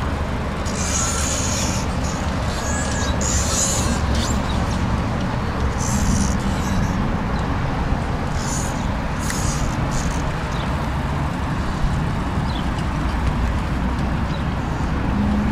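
Steady low vehicle rumble, with several short high-pitched hissing or chirping sounds over it in the first ten seconds.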